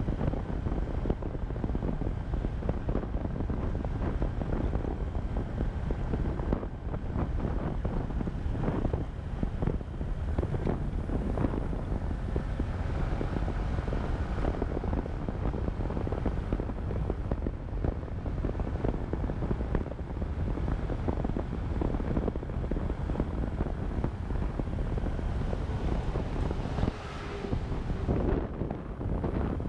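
Wind buffeting the microphone of a moving motorcycle, with the engine running under it at riding speed; a steady, gusty noise strongest in the low end.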